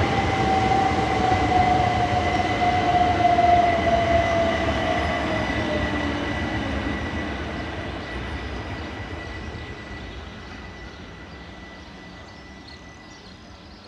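Class 375 Electrostar electric multiple unit running into the station and slowing, its whine falling in pitch over the first half alongside a steady high tone. The whole sound fades away steadily toward the end.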